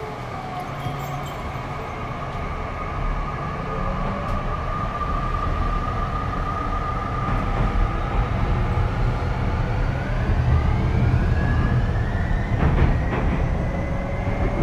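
Tokyu 5050-series EMU heard from inside the car, pulling away with its VVVF inverter and traction motors whining in several tones that climb steadily in pitch over a low running rumble as it gathers speed. The recordist takes the inverter for a Hitachi unit that sounds like it could be SiC. A few rail-joint clacks come near the end.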